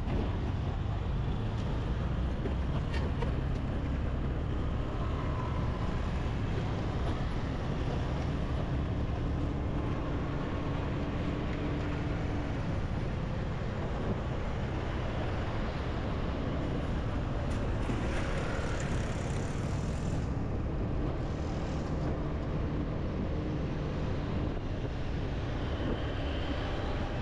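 Motorbike riding through city traffic: the bike's engine and the surrounding traffic as a steady noise, heaviest in the low end.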